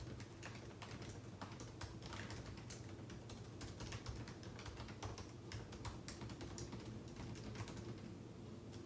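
Typing on a computer keyboard: quiet, irregular key clicks several times a second, over a faint steady low hum.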